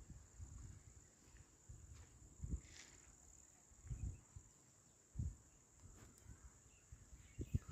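Quiet outdoor ambience: crickets or other insects make a steady, faint, high-pitched buzz, broken by a few soft, irregular low thumps.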